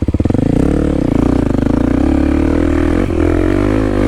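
Kawasaki KLX300's single-cylinder four-stroke engine revving hard under acceleration on a run-up to a dirt jump, its pitch climbing and wavering as the throttle is worked. There is a brief knock about three seconds in.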